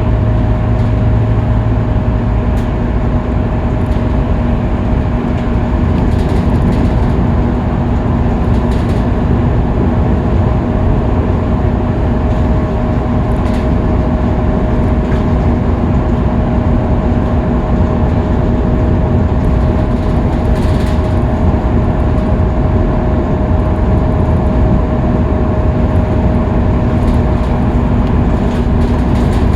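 Scania K310UB bus cruising on a freeway: a steady engine and driveline drone with constant road and tyre noise and an even hum.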